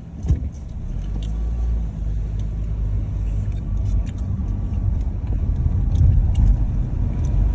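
Low, steady rumble of a car on the move, road and engine noise, growing slowly louder, with a short knock about a third of a second in.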